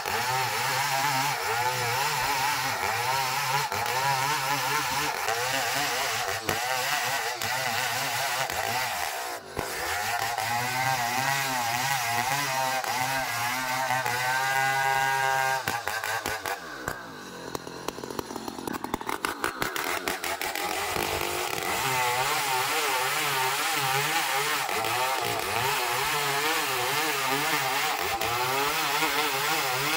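Sawmill saw running and cutting ulin (ironwood), its pitch wavering under the load. About fifteen seconds in it slows with a falling pitch and drops off for a few seconds, then picks up again and runs on steadily.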